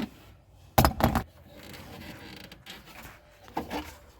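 Two sharp knocks about a second in, then quieter creaking and clicking as a long screw on the throttle position sensor is backed out with a Torx driver and ratchet.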